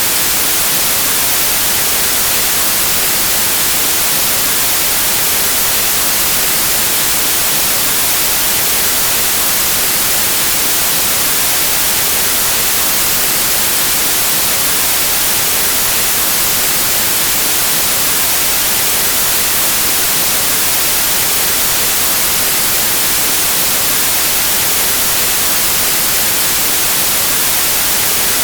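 Steady white noise: an even, unchanging hiss across all pitches, brightest in the treble, with no tones, rhythm or breaks.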